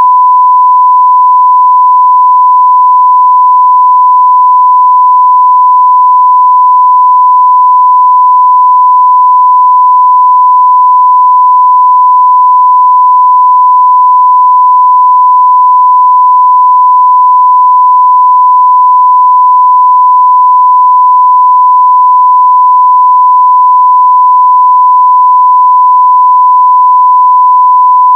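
Continuous 1 kHz sine-wave test tone at full digital level (0 dB), one steady unbroken pitch.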